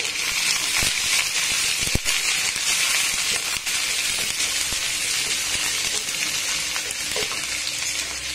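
Diced onion and garlic sizzling steadily in hot oil in a wok as they are sautéed and stirred with a wooden spatula. There are a few light knocks of the spatula against the pan.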